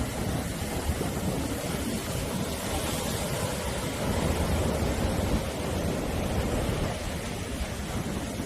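Sea surf washing on a shore, a steady rush of breaking waves that swells a little louder about four to six seconds in.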